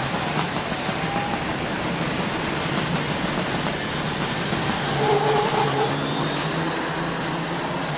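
Semi-truck diesel engines running at a drag strip, a steady heavy rumble and rush of noise. A short horn-like tone sounds about five seconds in.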